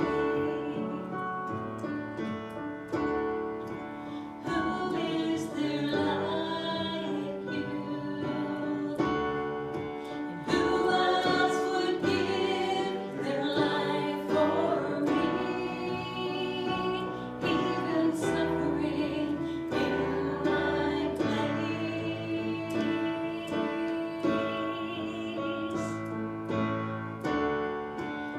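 Voices singing a worship song with instrumental accompaniment, the singing held in long sustained notes.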